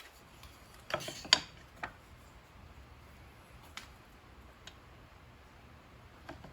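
A few sharp clicks and knocks, several close together about a second in and then single ones spread out, over a low steady hum.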